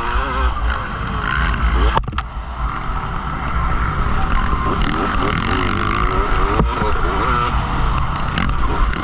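Motocross motorcycle engines running and revving, their pitch rising and falling, over a steady low rumble, with two sharp clicks about two seconds in.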